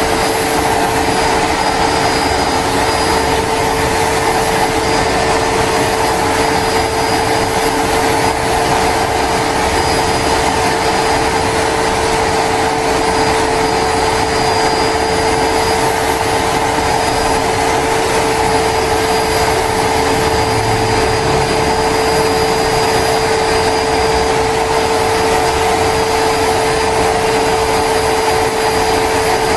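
Homemade turbocharger jet engine running at a constant speed: a steady whine held on one pitch over a loud rushing hiss, with no change in speed.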